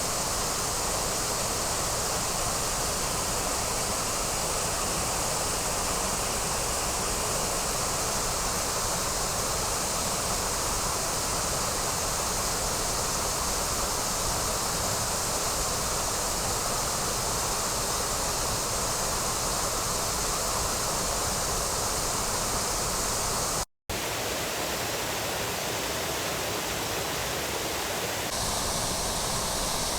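Waterfall on the Trevillet River: steady, loud rushing of falling water. The sound cuts out for an instant about three-quarters of the way through, then resumes with less low rumble.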